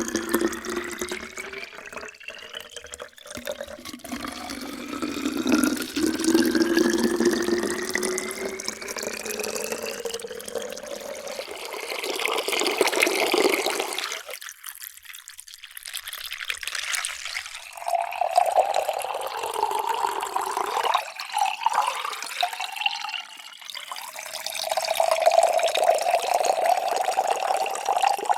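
Water poured into a vessel, its tone rising steadily as the vessel fills. Around the middle the pour falls away briefly, then a second pour starts with a higher tone.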